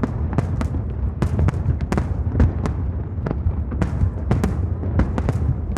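Aerial fireworks display going off: a rapid, irregular series of sharp bangs and cracks, several a second, over a continuous low rumble.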